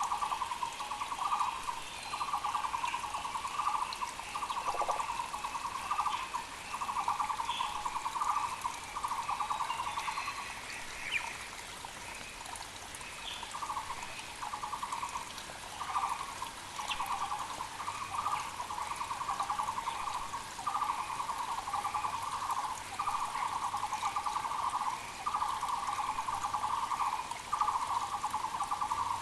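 Muller's barbet (Taiwan barbet) calling in a long series of rapid, pulsing phrases about a second each, with a pause of a few seconds about a third of the way in. Other small birds call faintly in the background.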